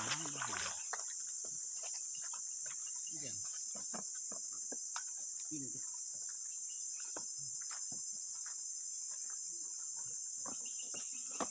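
Steady high-pitched insect chorus of crickets or cicadas, with scattered small clicks and knocks and brief faint voices.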